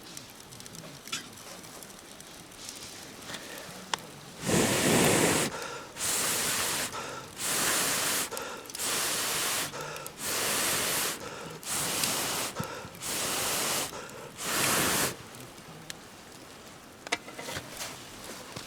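Campfire crackling faintly, then eight evenly spaced puffs of rushing air, about a second each, like breath blown at the embers to fan the fire.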